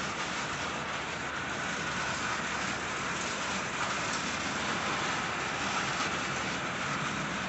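Steady rain coming down, an even hiss.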